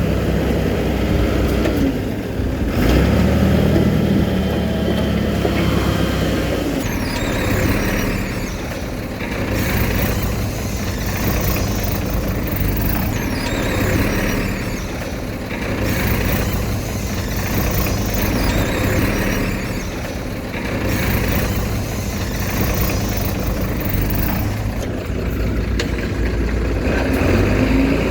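Diesel engine of heavy earthmoving machinery running steadily, its pitch rising and falling about two seconds in and again near the end.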